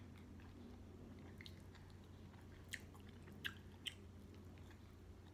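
Faint close-up chewing of a mouthful of steak, with a few sharp wet mouth clicks in the second half.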